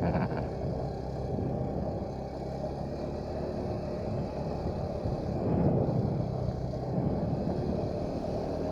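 Motorcycle engine running while riding, with wind rumble on the microphone.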